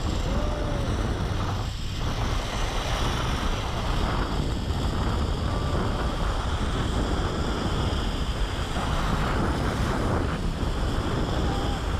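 Heavy wind buffeting the microphone, a steady dense rushing noise.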